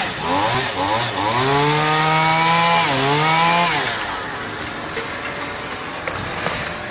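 Chainsaw engine revving up to full throttle, dipping briefly and revving again, then dropping back to a low running sound after about four seconds, as it cuts branches from the tree.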